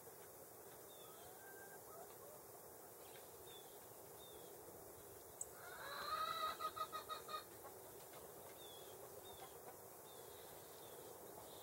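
A bird's rapid run of about eight harsh, pitched calls lasting about a second and a half midway, over faint scattered high chirps of small birds.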